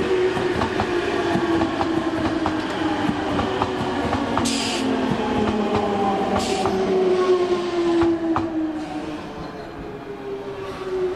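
Nankai electric train running past on the adjacent track, its motor whine falling slowly in pitch, with the clack of wheels over rail joints and two short hisses about four and a half and six and a half seconds in.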